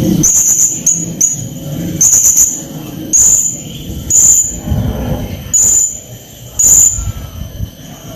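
Blue-crowned hanging parrot (srindit) calling in a string of short, shrill, high-pitched notes at uneven intervals, a bird in full, agitated song.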